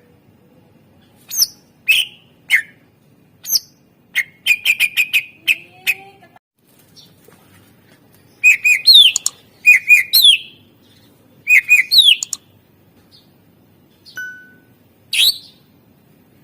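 Cucak ijo (green leafbird) singing in loud, separate phrases. It gives single sharp notes, then a quick run of about six notes, then three similar phrases of short notes, each ending in a fast upward sweep.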